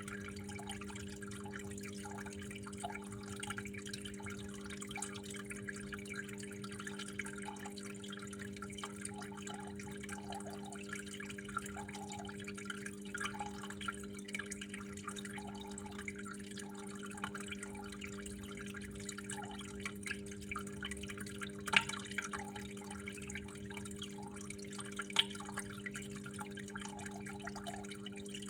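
Water flowing and dripping in small irregular splashes over a steady low hum, with two sharper drips about three-quarters of the way through.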